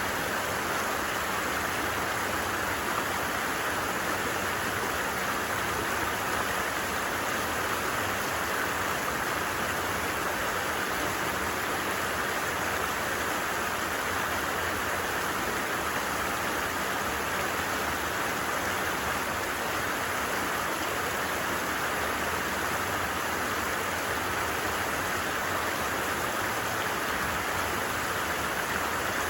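Creek water running steadily, an even rushing hiss with no breaks.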